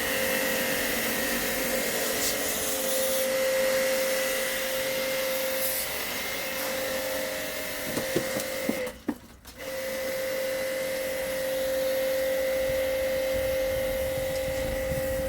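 A small electric motor machine running steadily with a whine, used in AC cleaning work. There are a few clicks about eight seconds in, then it cuts out briefly and starts again.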